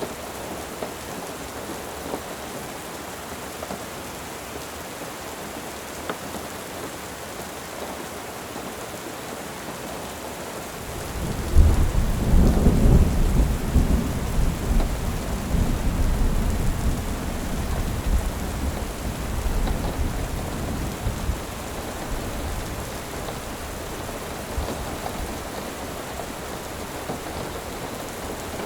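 Steady soft rain, with a loud low rumble starting about eleven seconds in that fades away over the next ten seconds.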